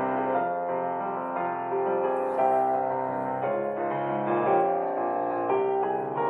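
Background piano music: a soft, slow keyboard piece with sustained notes.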